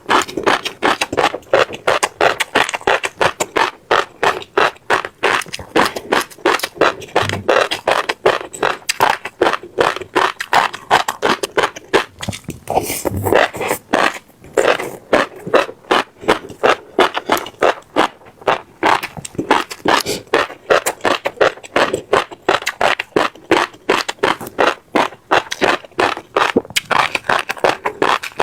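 Close-miked chewing, seeds crunched between the teeth in a steady run of crisp cracks, several a second.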